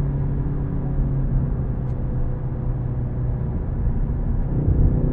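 Ford Focus ST's turbocharged four-cylinder engine at light load with a steady low note under heavy road and tyre rumble, the engine note building again near the end. There is a short click about two seconds in.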